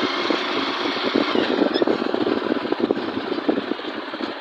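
A motor vehicle's engine running on the move, with a rapid, uneven pulsing and a steady rush of wind and road noise that eases off slightly near the end.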